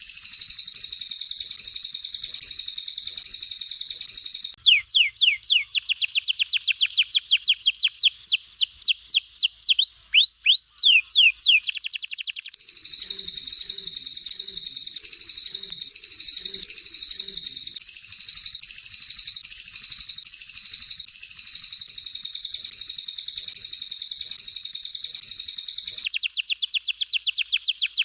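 Recorded songs of a domestic canary and a cililin, alternating as bird-training material. A dense, high-pitched continuous trill switches about four and a half seconds in to a rapid run of descending whistled sweeps, several a second. The dense trill returns near the middle, and the sweeps return again near the end.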